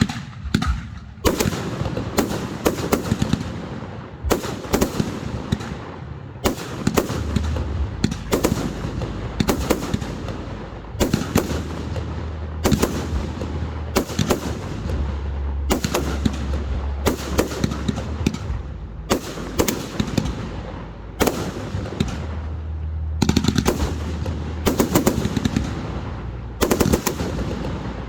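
Aerial fireworks display: a continuous barrage of shell bursts, single bangs and rapid crackling clusters in quick succession, with a low rumble echoing between them.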